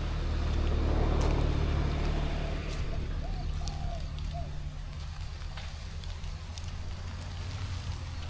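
A motor vehicle engine running with a steady low hum, loudest about a second in and then easing off as it fades.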